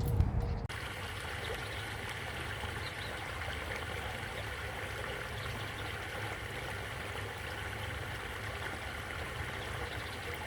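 Steady sound of running, trickling water. A louder, bass-heavy sound cuts off abruptly under a second in, leaving only the water.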